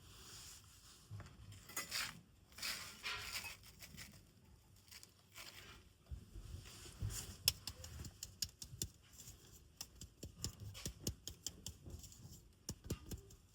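Rustling and crinkling with many light irregular clicks and knocks, like small objects being handled.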